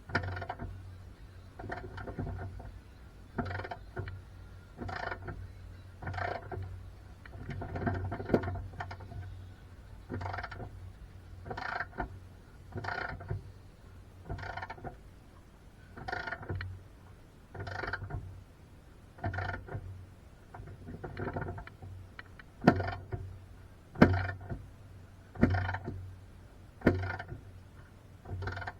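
Repeated strokes of a hand tool working a metal suspension part, about one every second and a half, with sharper clicks on the strokes in the second half.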